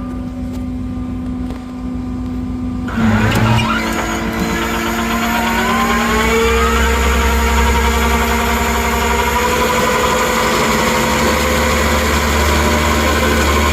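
Rollback tow truck idling, then about three seconds in the winch is engaged: the engine revs up with a rising whine and runs steadily under load while the winch pulls the wrecked car along the deck.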